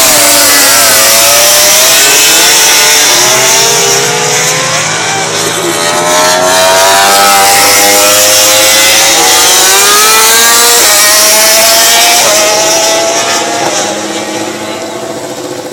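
MotoGP racing motorcycles, 800cc four-stroke prototypes, accelerating hard past the microphone. The engine pitch climbs and drops sharply at each upshift, then fades away near the end.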